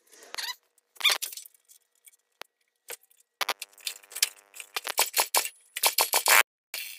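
Intermittent clinks, rattles and scrapes of metal tools and parts being handled while working on a mini bike's engine, with a steady whirring tone joining them about halfway through.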